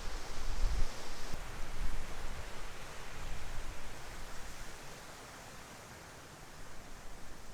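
Strong gusting wind buffeting the microphone with a low rumble and a rustling hiss. It is strongest early, dies down to a lull about two-thirds of the way through, then picks up again near the end.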